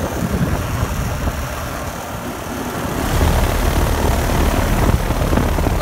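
A 2.5-ton Rheem Classic RA14 central air conditioner's outdoor condensing unit running steadily, its fan and compressor droning. Strong wind buffets the microphone and adds a rough low rumble that swells about three seconds in.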